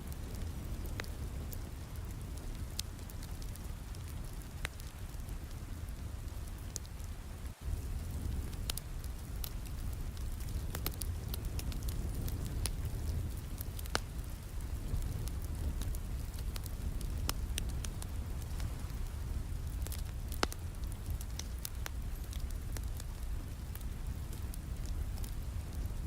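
Steady rain with a wood fire crackling, sharp pops scattered irregularly over the even hiss of the rain.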